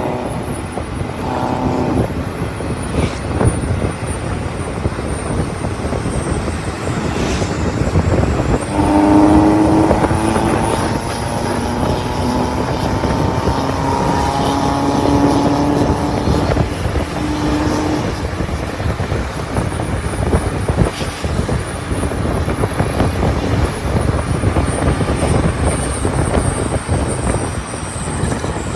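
Diesel vehicle engines and tyre noise on a mountain road, with one engine's pitched drone standing out for several seconds in the middle as it pulls under load.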